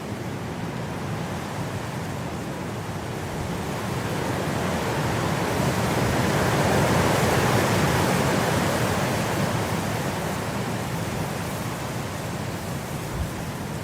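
Blizzard wind rushing steadily, swelling into a strong gust about halfway through and then easing off.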